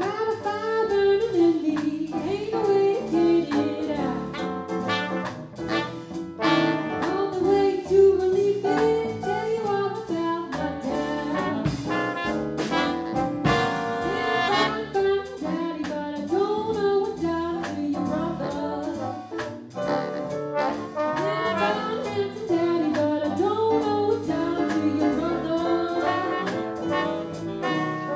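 Swing jazz band playing: a woman sings the melody over a horn section of saxophones, trumpet and trombones, with piano, bass and drums.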